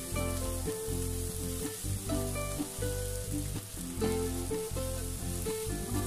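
Fried rice sizzling in a hot pan as it is stirred with a spatula, a steady hiss, over background music with a bass line and changing notes.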